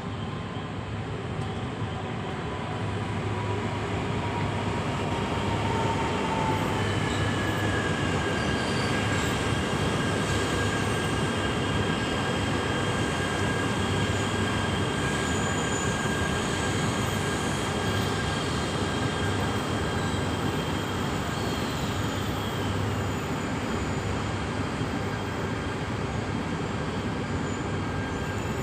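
E3 series Shinkansen train pulling slowly into a station platform, its running gear giving a continuous rumbling noise. High steady squealing tones ride over it, one giving way to higher ones about a quarter of the way in.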